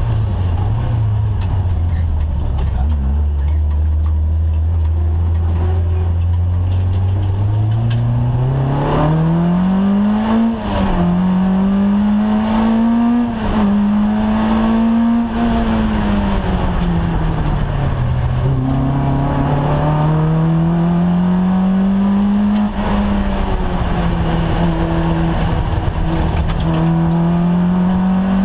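Peugeot 205 GTI Mi16 rally car's 16-valve four-cylinder engine heard from inside the cabin. It runs at low, steady revs for the first several seconds, then pulls hard through the gears with quick upshifts about ten and thirteen seconds in. It eases off around sixteen seconds and accelerates again, with another shift about twenty-two seconds in.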